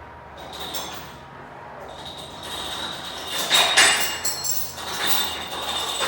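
Steel parts and tools clanking and ringing as they are knocked together, with several sharp metallic knocks a little after halfway that leave a ringing tone.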